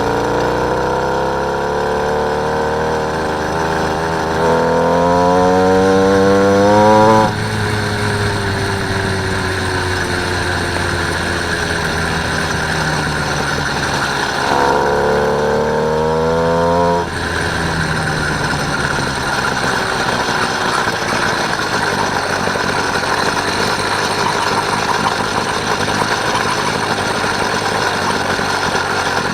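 Small engine of a motorised bicycle running under way, revving up with a rising pitch twice and dropping back suddenly each time the throttle is let off.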